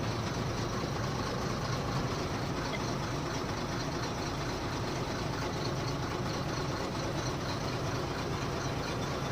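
Truck's diesel engine running steadily, a constant low drone with no change in speed.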